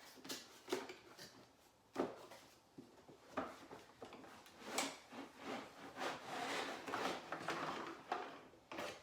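Cardboard toy packaging being ripped open and handled by hand: scattered knocks and clicks, then a longer stretch of scraping and rustling near the end.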